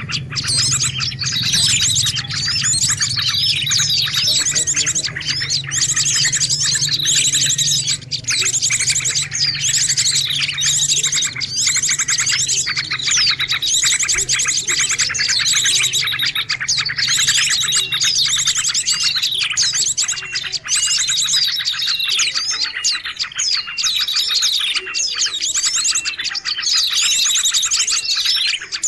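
Bird-lure (pikat) recording: a dense, noisy chorus of many small birds chirping and trilling at once, calls overlapping without pause. A faint low hum sits underneath and fades out about three quarters of the way through.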